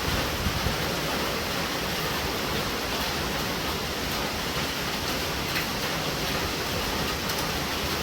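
Steady rain falling: a constant, even hiss with a few faint drop ticks.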